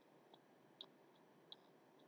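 Near silence with a faint hiss and three faint, short clicks, irregularly spaced.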